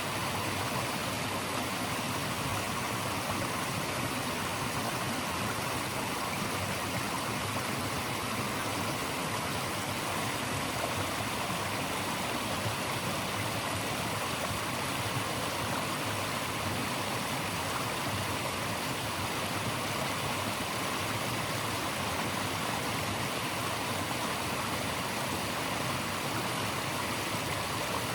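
Flowing stream rushing steadily, an even hiss of water with no changes.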